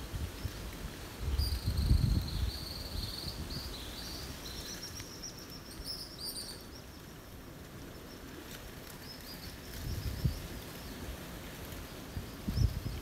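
Young songbirds giving high-pitched begging chirps in a quick run for about five seconds, then fainter chirps near the end: hungry fledglings calling for the parent to bring food. Wind gusts rumble on the microphone a few times.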